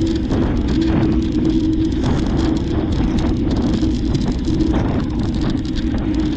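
Steady rushing noise of riding a bicycle: wind on the microphone over tyre and road noise, with a steady hum and faint crackle.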